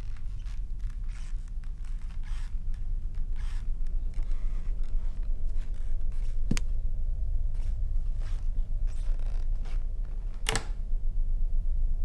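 A steady low hum with soft rustling and footsteps of a person moving through a house, and two sharp clicks: a light one about six and a half seconds in and a louder one near ten and a half seconds.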